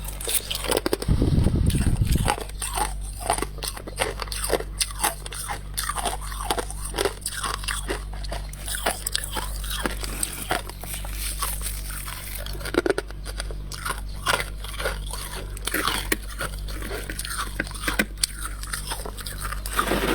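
Close-up biting and chewing of frost scraped from a humidifier: an irregular run of crisp crunches. About a second in comes a brief low rumble.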